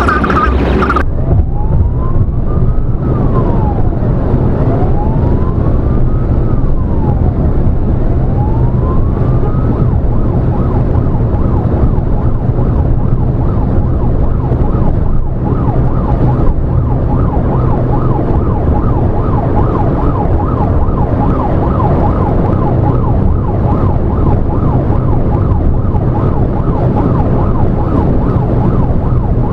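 Emergency vehicle siren heard from inside the vehicle over steady engine and road noise. It sounds a slow wail that rises and falls about every three to four seconds, then about ten seconds in switches to a fast yelp that runs on.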